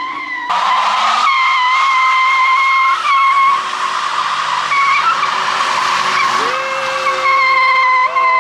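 Car tyres squealing in a sustained burnout: a loud, steady, high-pitched screech of spinning rubber over a hiss. A second, lower squeal joins about six and a half seconds in and slides down in pitch.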